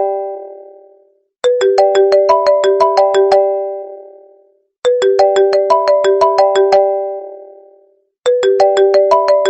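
iPhone ringtone playing on repeat: a short melody of quick, bright plinking notes. Each phrase ends in a fading ring, and a new one starts about every three and a half seconds.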